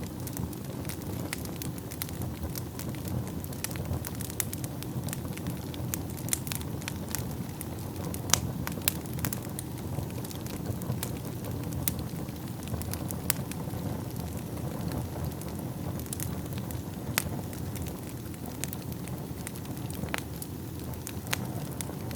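Wood fire burning in a fireplace: a steady low rumble of flames with frequent, irregular sharp crackles and a few louder pops.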